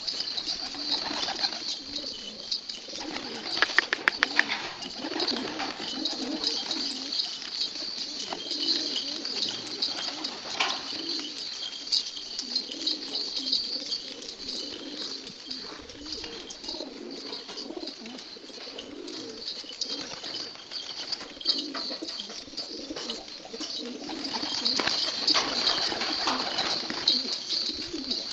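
Shami pigeons cooing continuously, over steady high-pitched chirping, with a brief clatter of wing flaps or knocks about four seconds in.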